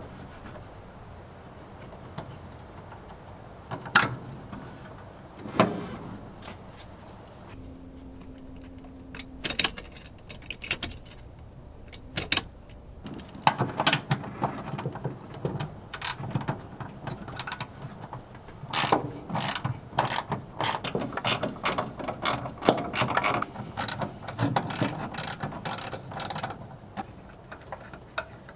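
Hand-tool work on a car: separate metallic clanks and knocks at first, then long runs of rapid ratchet-like clicking in the second half.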